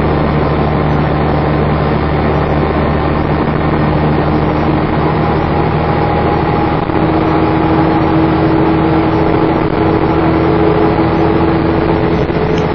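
Dennis Trident 2 double-decker bus engine running steadily, with a hoover-like whine that grows stronger and rises slightly in pitch about halfway through.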